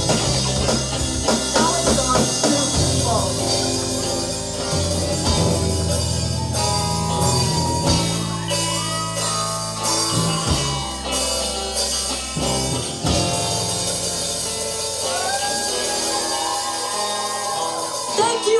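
A live rock band playing an original song: drum kit, bass and electric guitar, with a singer's voice over the top.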